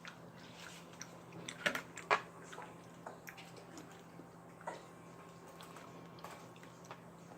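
A person eating quietly, chewing with a few short, sharp mouth clicks and smacks.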